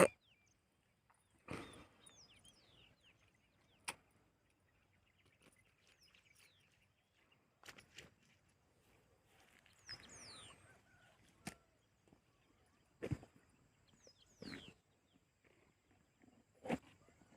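Birds calling now and then in the open with short, high, downward-sliding chirps, spaced several seconds apart. Between them come a few brief noisy bursts.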